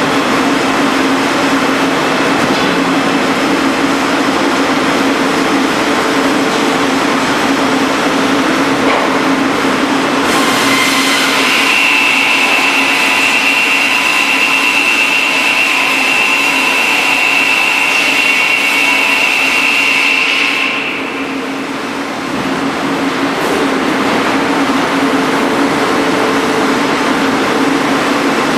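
Üstünkarlı beam-sawing machine running with a steady hum. About ten seconds in, its saw blades cut through wood with a high, steady whine for about ten seconds, then it drops back to running.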